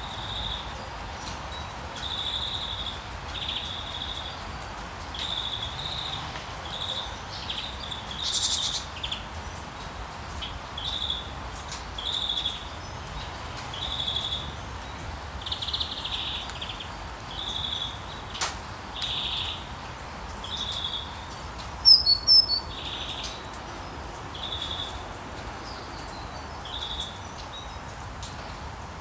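Rainforest ambience: a bird calling over and over in short, high notes, roughly one a second, over a steady hiss of rain. About three-quarters of the way through, a sharper, louder double chirp rises above the rest.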